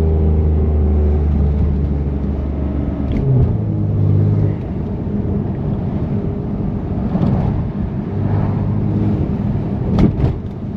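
A BMW M3 Competition's twin-turbo inline-six, with catless downpipes and the exhaust valves open, drones at steady revs. Its note shifts about three seconds in and then sinks under a steady hiss of tyre noise. A few sharp clicks come near the end.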